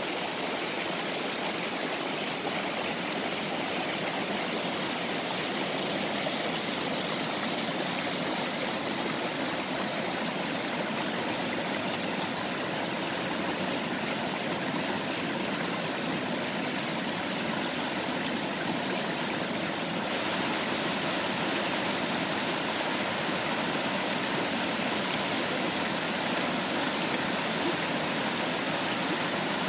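Stream rushing over a small waterfall: a steady, even flow of water that gets a little louder about twenty seconds in.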